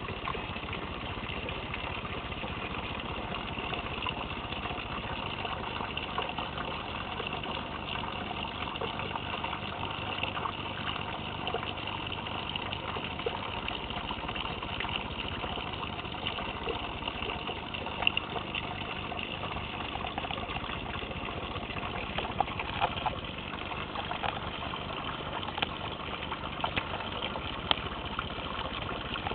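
Steady rain falling on the leaves and flowers of a mock orange shrub, with scattered sharp drop ticks.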